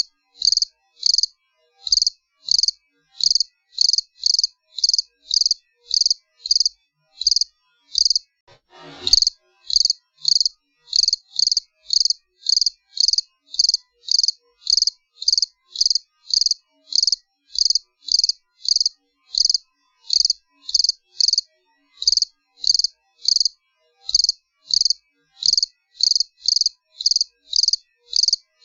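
A cricket chirping in a steady, regular rhythm: short high-pitched chirps, about two to three a second, with silence between them. About nine seconds in, a short burst of noise sounds once.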